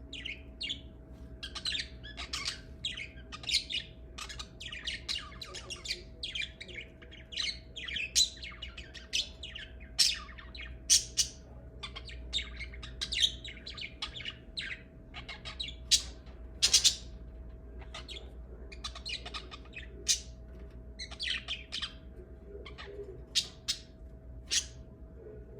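Lovebirds chirping and squawking: a busy, irregular stream of short, shrill calls. A faint steady hum runs underneath.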